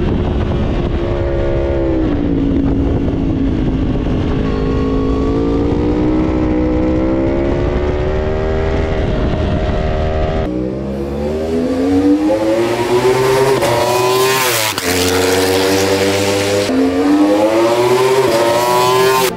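Yamaha superbike racing motorcycle engine at high revs: the pitch sags and then slowly climbs as it is driven through a long corner. After a cut, the bike accelerates hard up through the gears, the pitch rising in steps, and sweeps past about two-thirds of the way through.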